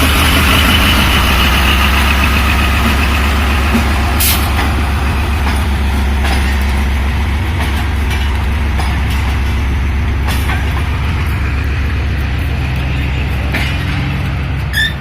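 Diesel locomotive engine running with a steady low rumble, with a hiss of air fading over the first few seconds and a few sharp clicks.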